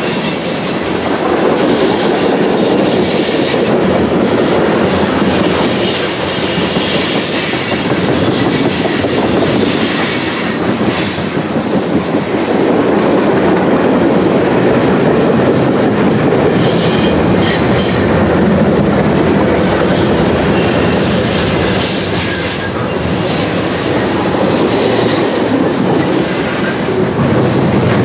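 A CSX mixed freight train of tank cars, covered hoppers, boxcars and gondolas rolling past close by. Loud, steady rumble and rattle of steel wheels on the rails.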